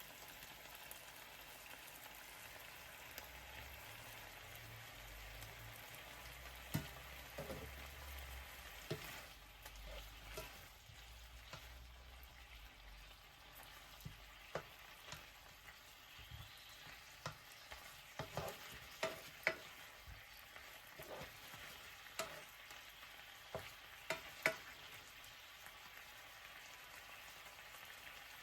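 Chicken sizzling as it fries in a pan, with scattered sharp clicks and taps of a utensil turning or stirring it.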